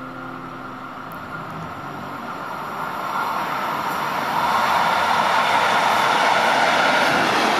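Train running on the rails, a rushing noise of wheels and running gear that grows louder about three to four seconds in and then holds steady.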